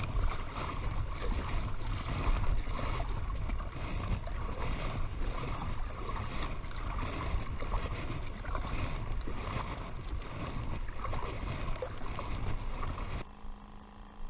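Water sloshing around a kayak, with rhythmic swells like paddle strokes and a low rumble of wind on the microphone; the sound drops off abruptly about a second before the end.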